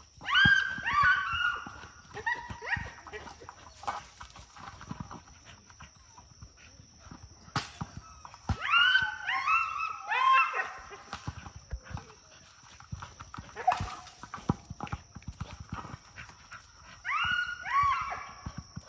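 Three drawn-out animal calls, each about two seconds long with several stepped, falling notes, coming roughly eight seconds apart, over scattered clinks and knocks and a faint steady high whine.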